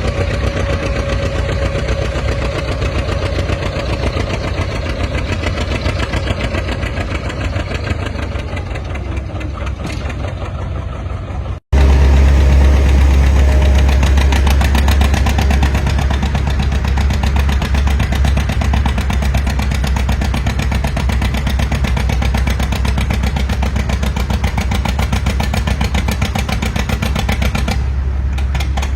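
Antique farm tractor engine running. A sudden break about twelve seconds in, after which a louder, deeper tractor engine runs with a fast, even firing beat.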